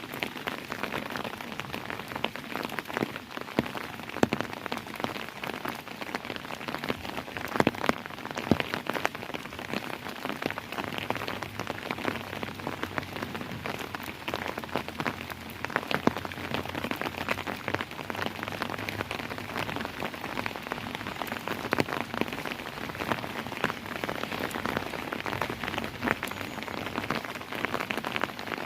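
Steady rain falling, with many close, sharp drop impacts patting on a hard surface over an even hiss.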